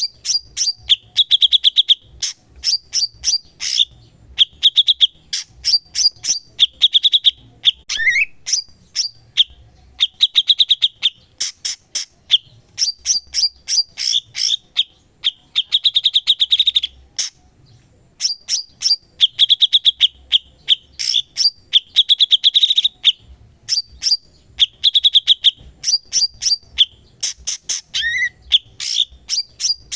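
A cucak cungkok songbird singing steadily: rapid strings of sharp chirps and buzzy trills, with an occasional short rising whistle. There is a brief pause a little past halfway.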